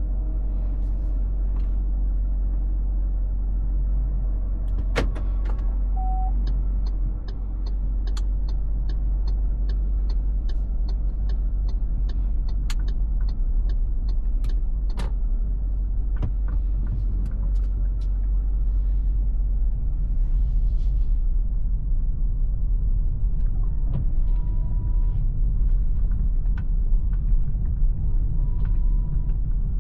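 MG ZS Hybrid+ on the move, heard from inside the cabin: a steady low rumble of road and drivetrain noise. A regular ticking, about two a second, runs for about ten seconds near the middle and starts again near the end.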